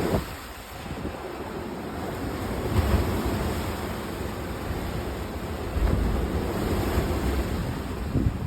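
Sea waves washing ashore with wind, a continuous rushing surf with deep rumble that swells about three seconds in and again around six seconds.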